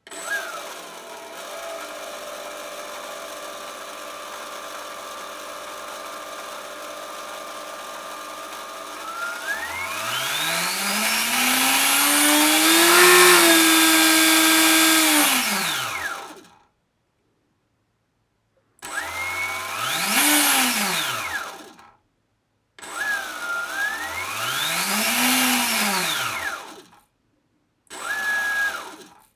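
Electric motor of a GMP Cricket RC helicopter conversion on a test run: a steady whine at low speed, then, about nine seconds in, spinning up to a higher pitch, holding and winding down. It then runs up and down again several times in shorter bursts, each rising and falling in pitch, with sudden cuts between them.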